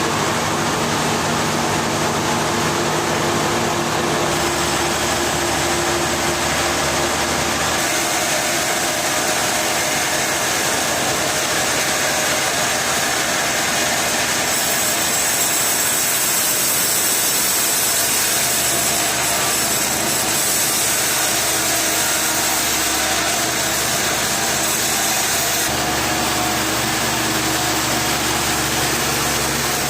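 Engine-driven sawmill machinery running steadily and loud, its tone shifting a few times.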